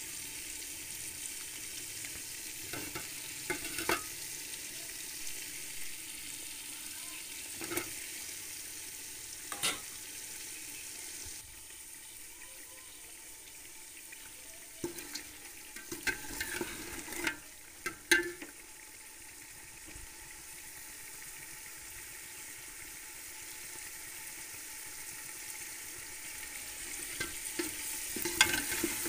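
Chicken and tomato pieces sizzling in oil in a metal pot, with a steady frying hiss, while a metal ladle stirs them and clinks and scrapes against the pot now and then, most often a little past the middle and near the end.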